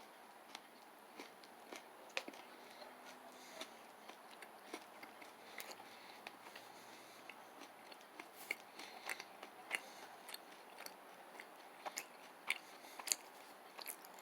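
A person chewing a bite of a protein peanut butter granola chewy bar, faint, with irregular soft clicks and smacks of the mouth that come more often in the second half. The bar chews easily, not very chewy.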